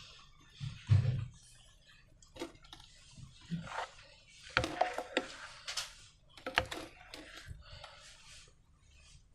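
Hands working slime and its containers: an irregular scatter of short taps, clicks and soft crackly squishes, busiest and loudest in the middle.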